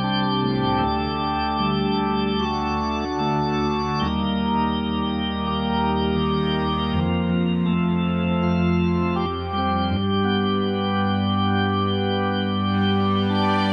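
Nord Electro 6D stage keyboard playing an organ sound: slow held chords over sustained bass notes, the chord changing about every three seconds.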